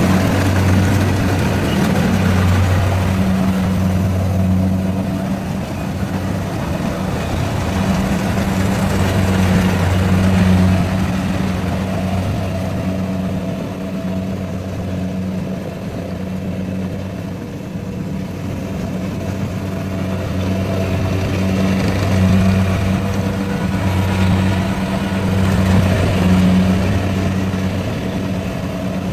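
Rice combine harvester's engine running steadily, a low drone that grows louder and softer by turns.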